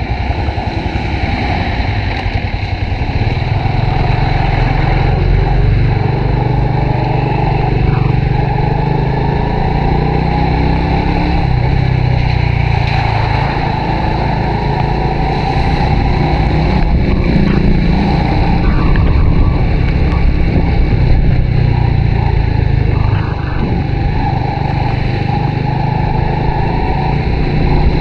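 Honda RSX 110 motorcycle's small single-cylinder four-stroke engine running steadily while being ridden, its pitch shifting a little with the throttle.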